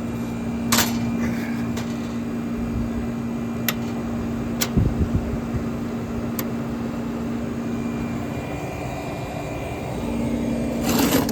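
1970 Westinghouse casement air conditioner with a Bendix compressor running: a steady compressor hum over fan and air noise. A few sharp clicks and a low thump about five seconds in, and the hum dips briefly near the end before coming back.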